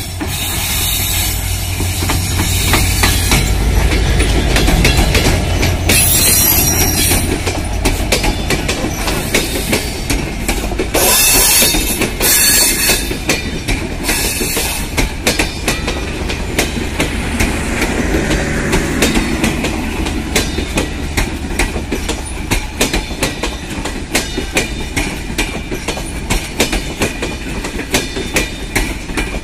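Diesel-hauled passenger train passing close by: a low locomotive engine rumble at first, then the coaches rolling past with a steady clickety-clack of wheels over rail joints. Several brief high-pitched wheel squeals come in the first half.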